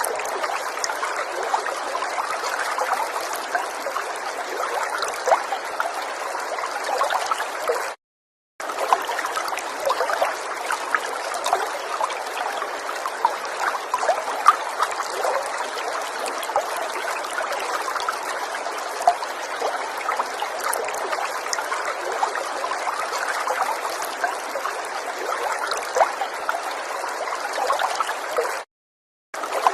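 River water flowing and trickling in a steady rush, dotted with many small splashes. The sound cuts out completely for about half a second twice, once about eight seconds in and again near the end.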